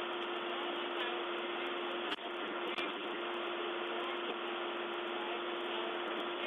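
Steady outdoor background noise with a constant low hum, heard through a narrow-band police camera microphone. A sharp click comes about two seconds in and a smaller one shortly after.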